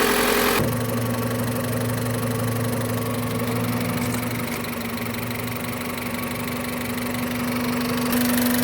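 Honda Civic D-series four-cylinder engine idling steadily after a head gasket, timing belt and water pump job, running smoothly. Its tone shifts abruptly about half a second in, then holds steady.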